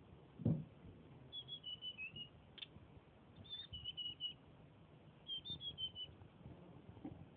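Young tledekan songbird singing three short phrases, each a quick run of high whistled notes stepping downward in pitch. There is a soft thump near the start and a sharp click in between the phrases.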